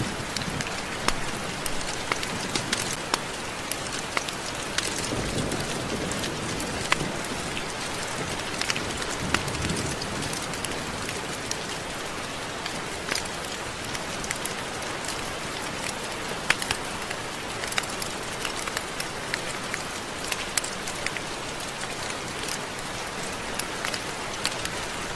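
Steady rain: an even hiss with many sharp individual drops ticking through it.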